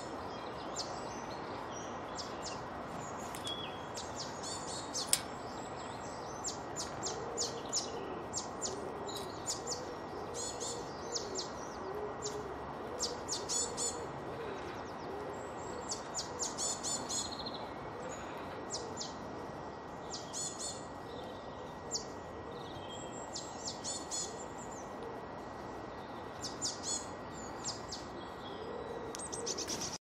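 Small garden birds chirping and calling in short, high, scattered bursts over steady background noise. A sharp click sounds about five seconds in.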